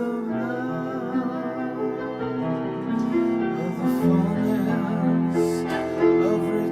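Slow instrumental music on piano and keyboard: sustained chords held over long low bass notes, the bass shifting a few times.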